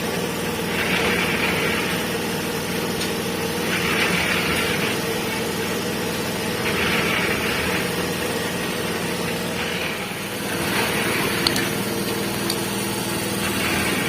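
A motor running steadily with an even hum. A short hissing or rubbing noise comes in every two to three seconds.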